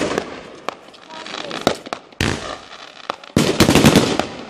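Category 4 fireworks battery of 30 mm shells firing: a string of loud bangs with crackling tails, single shots spaced out at first, then a rapid cluster of bangs about three and a half seconds in.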